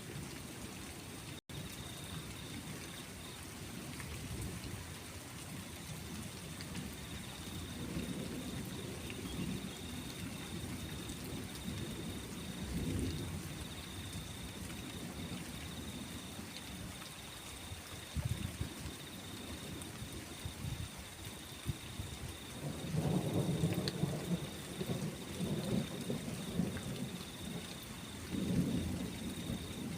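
Steady rain with rolling thunder rumbling low underneath, swelling and fading several times and loudest about two-thirds of the way through and again near the end.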